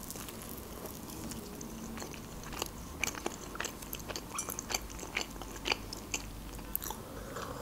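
Close-miked chewing of a soft rolled lavash snack: a string of short, irregular wet mouth clicks and smacks.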